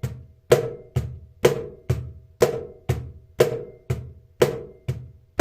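Cajon played with the hand, alternating high slaps on the upper edge of the front plate with weaker medium slaps, about two strikes a second in an even loud-soft pattern: the high-medium practice exercise.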